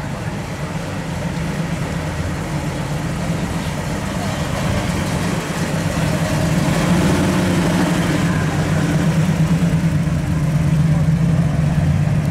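A 1970 Pontiac GTO's V8 idling as the car rolls slowly past, followed by a first-generation Camaro's engine. The low, steady exhaust note grows louder about halfway through.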